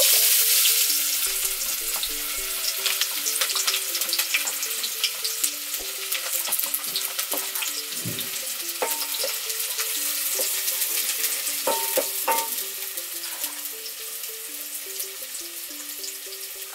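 Chopped onion tipped into hot cooking oil in an aluminium saucepan, sizzling loudly at once and then settling into a steady crackling fry as it is stirred with a wooden spoon. A few knocks of the spoon against the pot.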